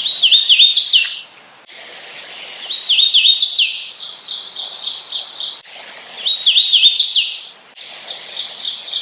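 Hooded warbler singing three times. Each song is a few clear slurred whistled notes ending in a louder rising flourish, and a faster run of short, even notes fills the gaps between songs.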